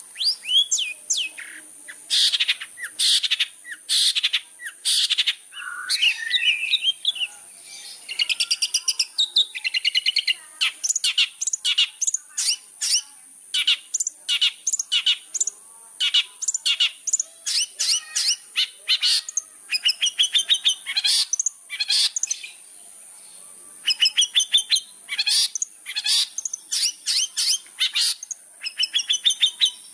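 Long-tailed shrike (cendet) singing a rapid, varied song of short sharp notes and chattering runs in full voice, with a brief pause about three-quarters of the way through.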